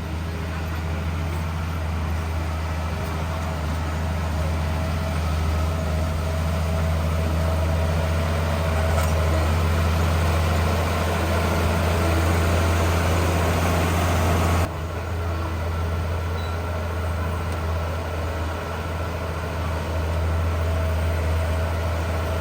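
Heavy diesel engine of earthmoving machinery running steadily with a deep hum. The sound changes abruptly about two-thirds of the way through and then carries on at a similar level.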